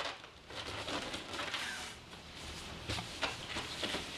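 Cardboard box and packing material being handled and rustled, with a few light knocks and scrapes.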